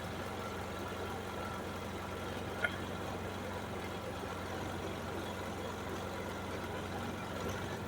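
Predator 3500 inverter generator running steadily, with a brief click about two and a half seconds in.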